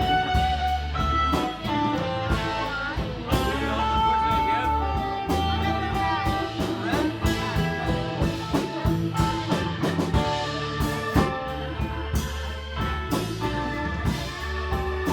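Live rock band playing an instrumental passage: a lead guitar with bending, sustained notes over bass and drums.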